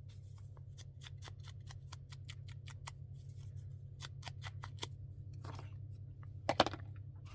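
Ink being dabbed onto the edges of a small paper tab: light tapping and clicking several times a second. A steady low hum runs underneath, and there are a few louder knocks near the end.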